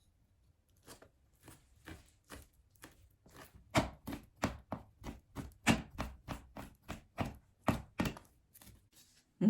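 Kitchen knife chopping on a cutting board in a steady run of quick chops, about three a second, getting louder partway through.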